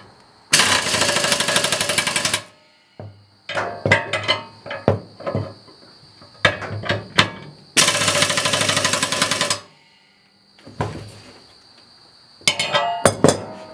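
Two bursts of rapid mechanical rattling, about two seconds each, as the bolts on a disc harrow are tightened with a tool, with sharp metal clinks and knocks of tools and parts between them. A steady high insect buzz runs underneath.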